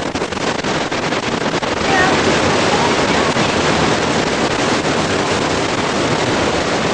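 Steady rushing of a waterfall, loud and unbroken.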